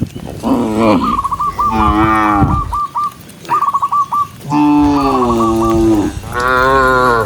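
Cattle mooing: about four moos, overlapping and from more than one cow, the longest a drawn-out call a little past the middle.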